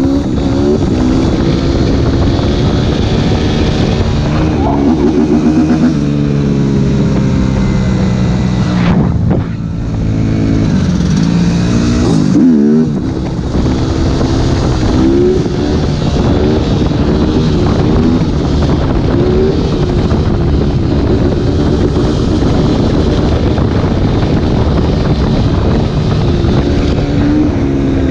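Suzuki RM-Z 250 four-stroke single-cylinder motocross engine through an open Akrapovič exhaust, running loud and revving up and dropping back again and again.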